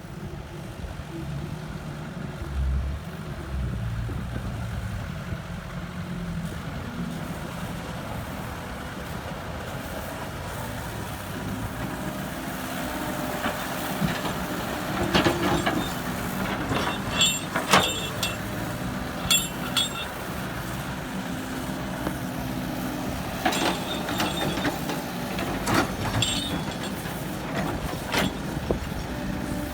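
Heavy vehicle engine running steadily, with a series of short sharp clanks and clicks in the second half.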